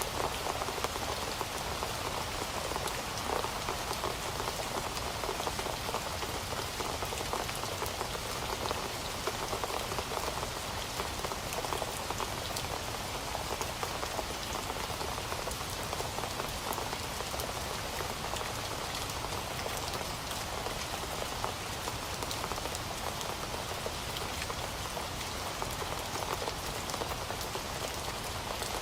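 Heavy rain falling steadily on a surface, a constant dense patter of drops with no let-up.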